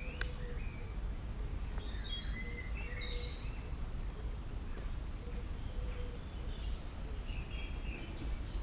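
Small birds chirping in short broken calls, mostly in the first half, over a steady low outdoor rumble; a single sharp click right at the start.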